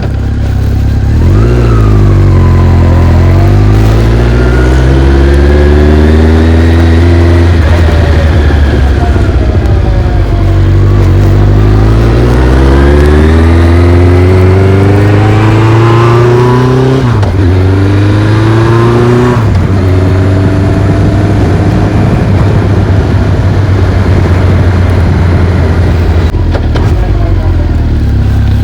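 Motorcycle engine and exhaust running under way, its note climbing and falling as it accelerates and eases off. Twice in the second half the pitch drops suddenly and climbs again, like quick upshifts, before it settles to a steady lower note.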